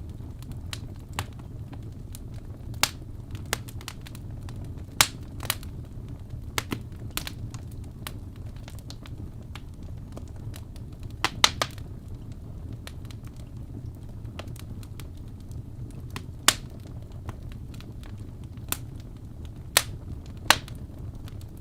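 Wood fire crackling in a fireplace: a steady low rumble of burning with irregular sharp pops and snaps every second or two, a quick cluster of them about halfway through.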